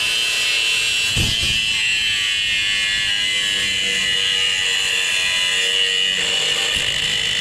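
A high-speed handheld power tool runs continuously with a steady high-pitched whine and hiss while it works on an electric motor being torn down for its copper.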